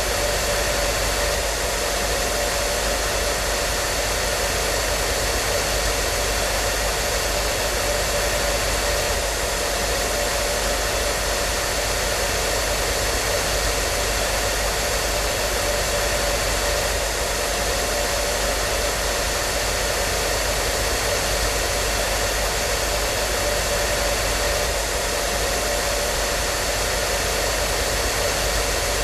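Hair dryer running continuously at a steady speed: an even rushing airflow with a faint steady motor hum, unchanging throughout.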